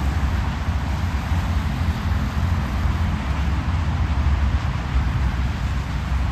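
Steady highway road noise of a car driving: a constant low rumble with an even hiss over it.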